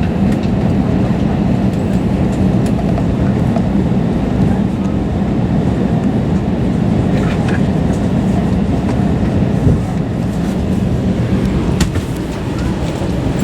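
Steady low rumble and hum inside an Airbus A320 cabin on the ground, with a few faint clicks.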